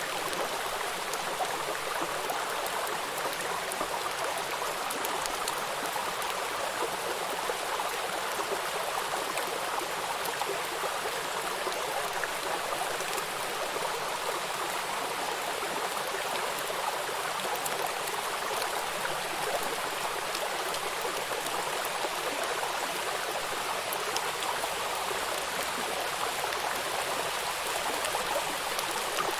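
Steady rushing of a river with rain falling on the water, a constant even hiss with faint pattering drops.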